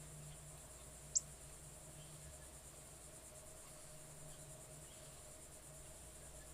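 Insects, crickets or similar, trilling in a steady high-pitched chorus. A single brief, sharp, high chirp cuts through about a second in.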